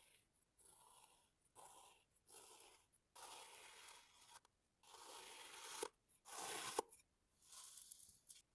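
Packed sand being cut through in a series of soft, gritty strokes, about eight in all. The longest strokes come in the middle, and a couple end with a sharp click.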